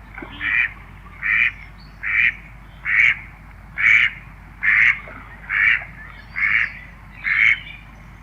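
A bird giving a steady series of short quack-like calls, about one a second, nine in all.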